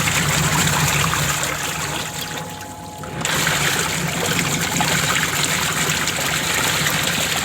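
Water running and trickling in a washing machine, over a low steady hum; the water sound drops away briefly about two and a half seconds in, then picks up again.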